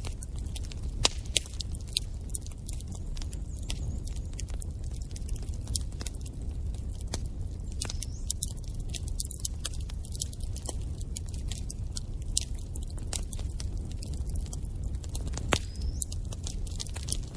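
Wood fire in a fireplace crackling, with irregular sharp pops and snaps over a low, steady rumble of the flames. A few louder pops stand out about a second in and again near the end.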